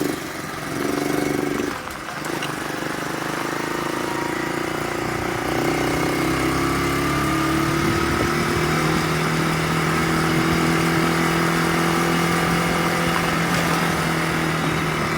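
Dirt bike engine running while being ridden, its pitch climbing over the first several seconds as it picks up speed, then holding steady.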